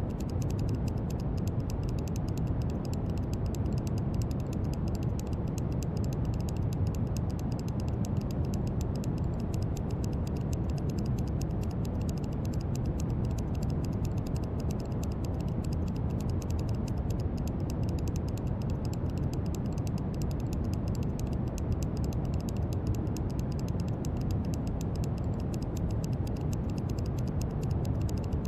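Steady brown noise: a deep, even rushing hiss, heaviest in the low range and fading toward the highs.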